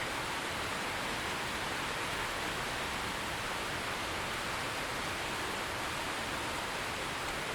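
Steady heavy rain falling, an even hiss without distinct drops or thunder.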